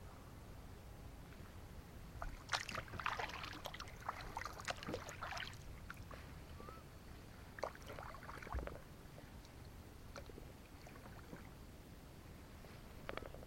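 Kayak paddle splashing and dripping in calm water in two bursts of strokes, one about two and a half seconds in and another about eight seconds in, with a brief splash near the end.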